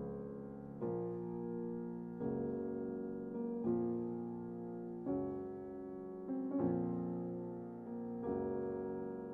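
Slow background piano music: sustained chords struck about once every second and a half.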